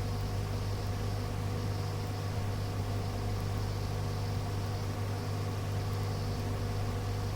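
Steady hiss with a constant low hum from an airband radio receiver between transmissions, with no voice on the channel.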